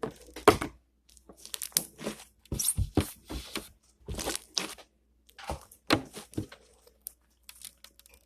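Slime being squeezed and worked by hand, giving irregular clusters of crackles and small pops.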